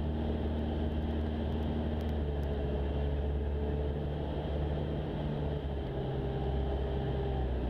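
Jabiru light aircraft's engine and propeller running steadily in the cockpit on final approach, the engine note shifting slightly a couple of times as power is adjusted.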